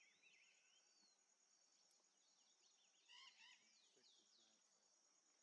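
Near silence with faint bird chirps and twittering, busiest about three seconds in, over a faint steady high-pitched insect tone.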